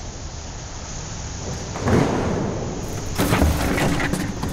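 Loud crashing noise: a heavy burst about two seconds in, then a longer, louder cluster of crashes over a steady noisy background.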